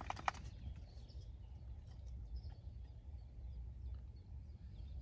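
Faint, scattered chirps of songbirds over a low steady rumble.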